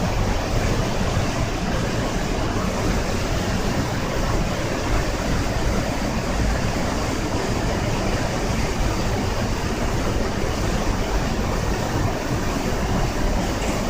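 Ryūzu Falls, a long cascade of water tumbling over rock, rushing with a steady, unbroken roar.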